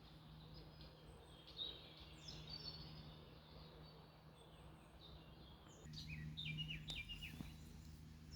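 Small birds chirping faintly, short high notes in two bursts, one a couple of seconds in and another near the end.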